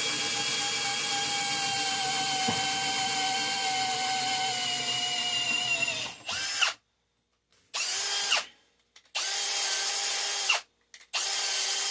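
Cordless drill running at low speed, drilling a homemade bus bar. It runs steadily for about six seconds, slowing slightly, then stops and is triggered in several short bursts that wind up and down. The slow speed is set on the trigger, not a sign of a flat battery.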